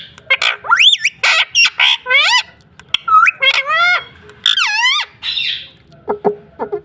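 Pet parrot squawking: a quick run of screechy calls and whistles that sweep up and down in pitch, followed by a few short clicks near the end.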